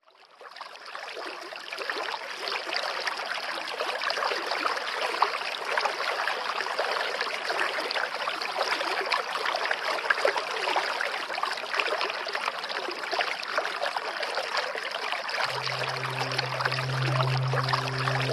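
Water running and trickling steadily, fading in over the first couple of seconds. About fifteen seconds in, a low steady drone tone joins it.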